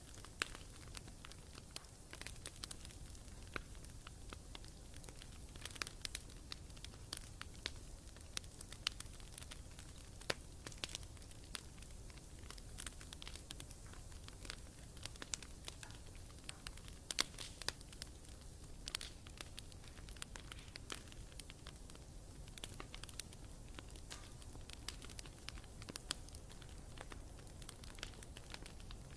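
Wood campfire burning, with many sharp crackles and pops coming irregularly over a steady low background.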